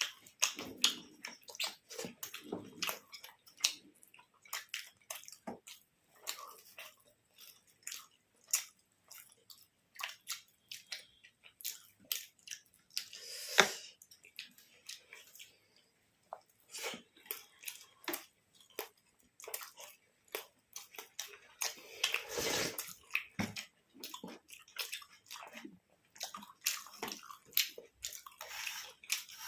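Close-up eating sounds: wet chewing and lip and tongue smacks, a steady patter of small clicks, with louder bursts about halfway through and again about three quarters through.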